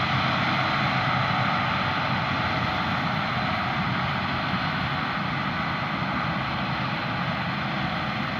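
Claas Lexion combine harvester cutting barley, its engine and threshing gear giving a steady drone that eases slightly in level.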